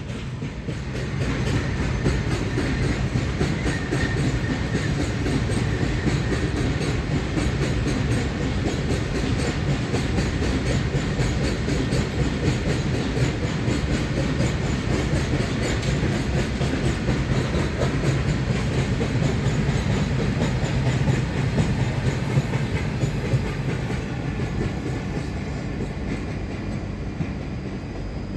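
Train running along the track: a steady rumble of the wagons with a rapid clatter of wheels over the rails, easing slightly near the end.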